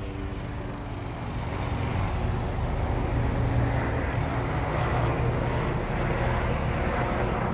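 Helicopter flying low overhead, its rotor thrum growing louder over the first few seconds and then holding steady.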